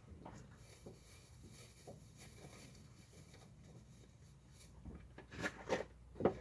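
Quiet handling noises from hands working with small parts and tools: faint scattered ticks, then a few sharper clicks and taps in the last second and a half.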